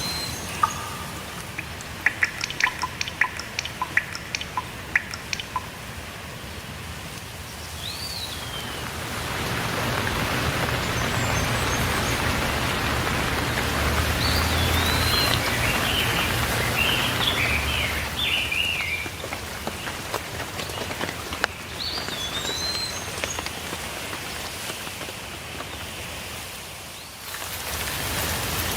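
Steady rain falling, with songbirds chirping over it. A run of sharp drips comes in the first few seconds, the rain grows heavier about ten seconds in, and short chirps that rise and fall come several times.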